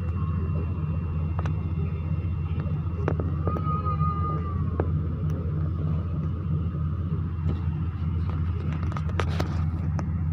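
Airliner's Rolls-Royce jet engine running steadily: a loud, even low drone with a faint high whine over it and a few light clicks.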